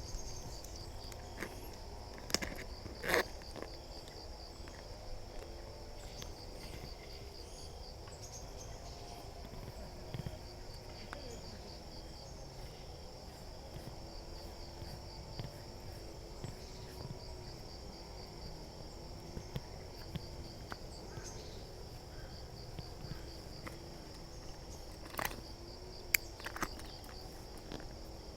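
Insects chirping in a steady, fast, even pulsing high pitch, with a few sharp clicks and knocks near the start and near the end.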